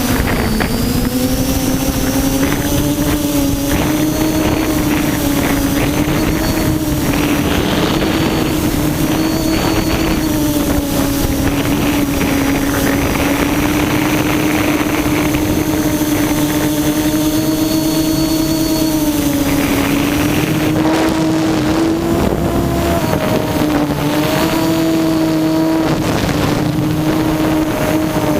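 Quadcopter's electric motors and propellers humming steadily in flight, heard from a camera on the aircraft, with a higher whine and wind on the microphone. The pitch wavers slightly as the throttle changes.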